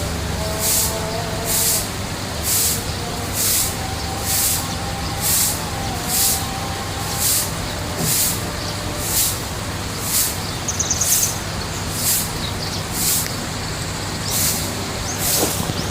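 Koi pond ambience: a steady low hum under a hiss that swells and fades about once a second, with a short high bird trill about eleven seconds in.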